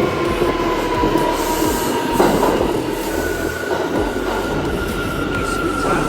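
New York City subway J train moving through the station over rumbling steel wheels, the wheels squealing in long high-pitched tones that slowly drop in pitch, with a clunk about two seconds in.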